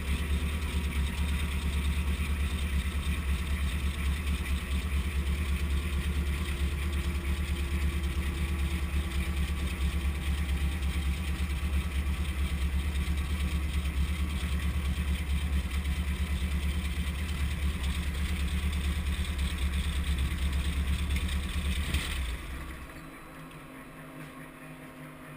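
Brantly B-2B helicopter's piston engine running steadily, then cut off about 22 seconds in; the sound drops sharply and leaves a fainter steady hum as the rotor system spins down in a shutdown.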